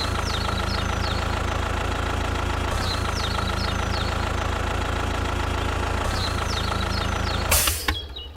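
A steady engine running at idle, even and unchanging, with a thin whine above it and short high chirps about every three seconds. Near the end a loud hissing burst cuts in and the engine sound drops away.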